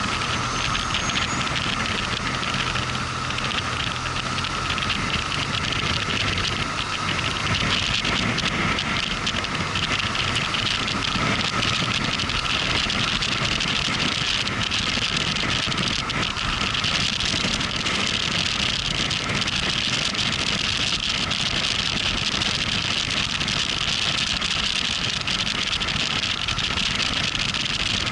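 Motorcycle engine running while riding, mixed with steady wind and road noise.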